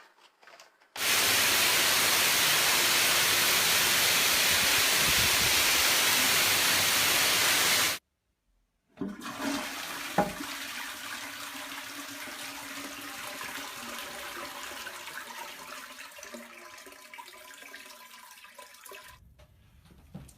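Toilet flushing: a loud rush of water that stops abruptly about eight seconds in. After a second of silence comes a quieter run of water with a click, which fades away over about ten seconds.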